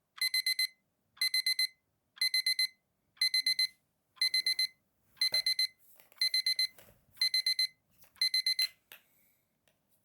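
Digital alarm beeping in repeated groups of four quick high beeps, about one group a second, nine groups in all, then it stops near the end. Faint rustling and soft knocks come between the later groups.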